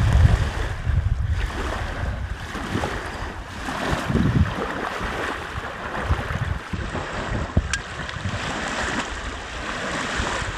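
Wind buffeting the microphone in irregular gusts over a steady rush, with small lake waves washing on the beach.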